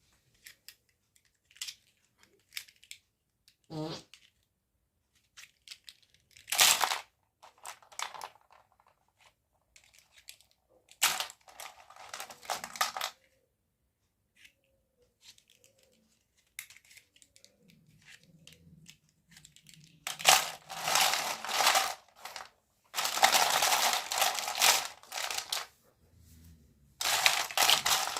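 Plastic packaging and small plastic toy pieces being handled. Scattered light clicks and taps come first, then longer stretches of crinkling and rustling in the second half.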